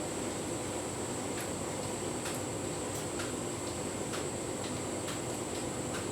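Tumble dryer running a full load of bedding: a steady motor-and-drum hum with a thin high whine, and faint irregular ticks.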